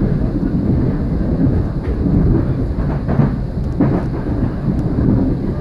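Passenger train running at speed, heard from inside the carriage: a loud, steady low rumble of wheels on track, with a few sharp clicks.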